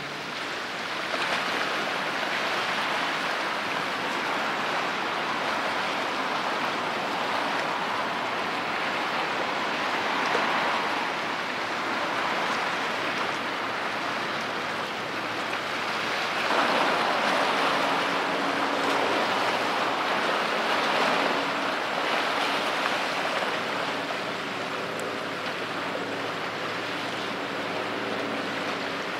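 Rushing water of a patrol boat's wash as it moves through the strait, swelling twice, with the boat's engine hum faintly underneath in the second half.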